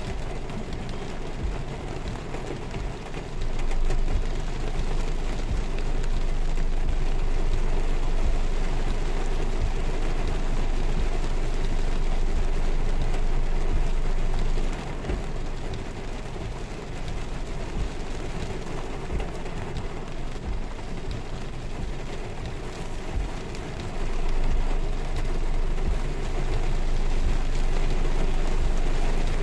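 Heavy rain pouring onto a car's roof and windshield, heard from inside the cabin as a dense, steady hiss. It gets louder a few seconds in, drops back about halfway through, and swells again later.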